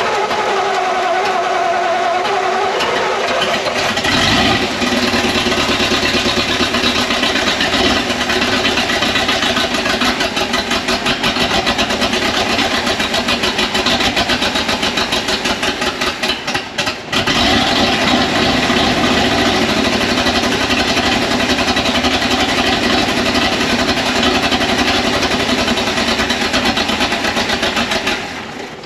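1959 Ford F700's Y-block V8 running on gas poured into the carburetor. It falters briefly about 17 seconds in, picks up again, then dies just before the end. It will not idle on its own, which the owner puts down to a faulty carburetor.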